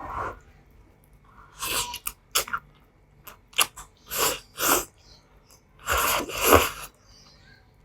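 Spicy Indomie instant noodles being slurped and chewed close to the microphone. There are several short, hissing slurps, the loudest two back to back near the end, with wet mouth clicks between them.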